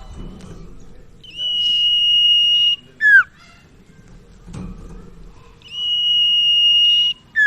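Common iora (sirtu/cipau) singing: a long, steady, high whistled note held for over a second, then a quick sharply falling note, repeated twice.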